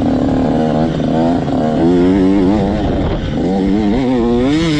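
Motocross bike engine revving hard, its pitch rising and falling over and over as the throttle is worked and gears change on the track.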